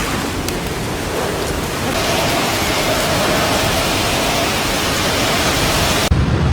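Storm wind with heavy rain: a loud, dense, steady rush of noise. About six seconds in it changes abruptly to a lower, buffeting rumble of wind striking the microphone.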